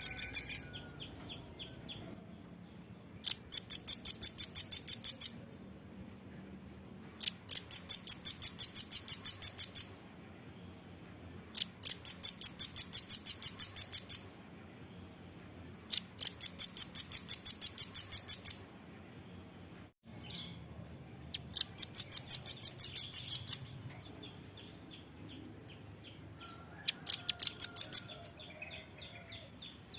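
Velvet-fronted nuthatch calling: fast, high, evenly spaced trills of sharp notes, about eight a second, each lasting about two seconds and repeated every four seconds or so.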